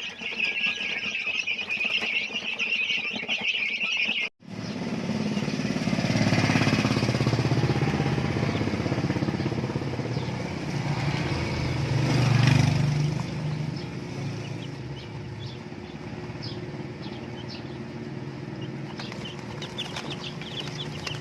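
A motorcycle engine runs as it passes, growing louder to a peak about twelve seconds in and then fading. Before it there is a dense high buzzing that cuts off sharply about four seconds in. Short high chirps come near the end.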